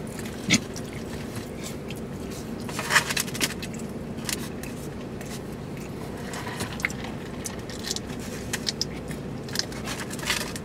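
People eating fried fish: chewing and crunching, with short scrapes and rustles of food containers, over a steady low hum.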